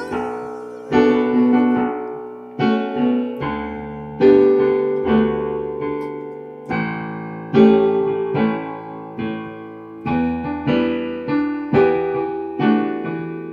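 Piano playing slow chords, each struck and left to ring and fade, as the instrumental accompaniment of a worship song.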